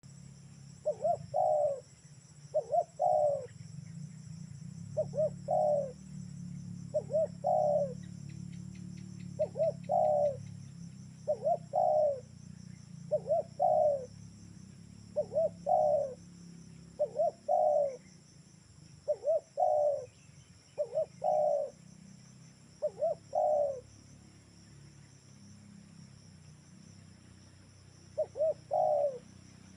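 Spotted dove cooing, a short phrase repeated about every two seconds, a dozen times, then a pause before one more near the end. Insects drone steadily behind.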